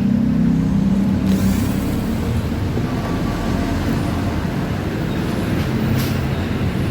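A motor vehicle engine running steadily, its pitch dropping a little after about two seconds, with a short knock near the end.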